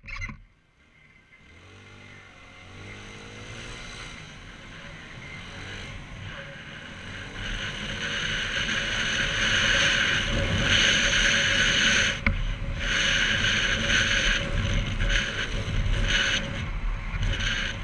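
Motorcycle riding on the road, engine and wind noise building over the first several seconds, then staying steady. A single sharp click about twelve seconds in.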